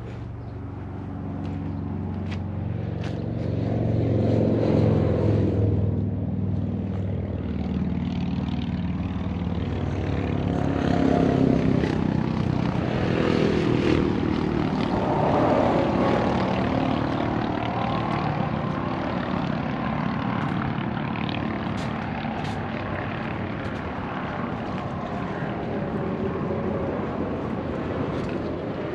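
An engine running continuously, its pitch and loudness drifting up and down a little.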